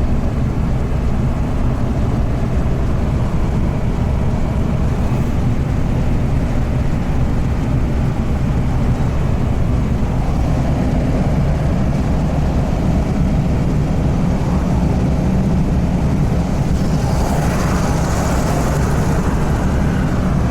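Scania truck's diesel engine and road noise heard from inside the cab while driving at steady speed, a continuous low rumble. A brief rush of higher noise swells and fades near the end.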